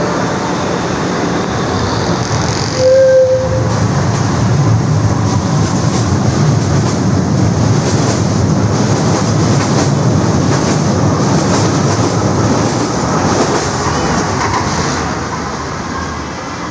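LRTA 2000 class electric train of Manila's LRT Line 2 running on its track: a steady rumble of wheels and rails. A brief tone sounds about three seconds in.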